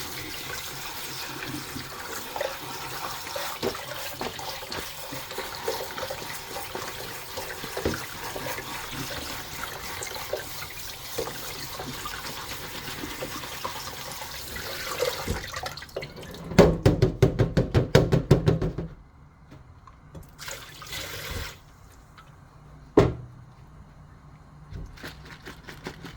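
Water running and splashing during kitchen food preparation, then a fast run of sharp knocks for about three seconds, followed by a couple of single knocks.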